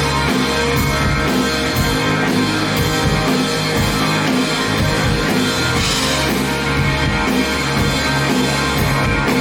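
Rock band playing live with electric guitars, bass and drum kit, in an instrumental passage without vocals.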